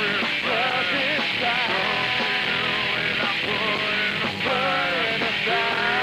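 Rock band playing live and loud, with a wavering melodic line over the steady full-band accompaniment.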